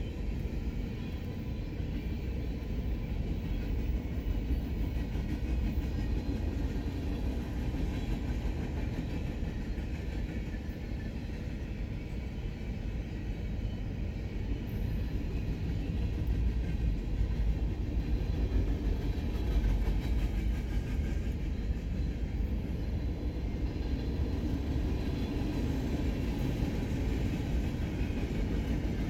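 Freight train of open-top hopper cars rolling past at steady speed, its wheels giving a continuous low rumble on the rails that grows a little louder past the middle.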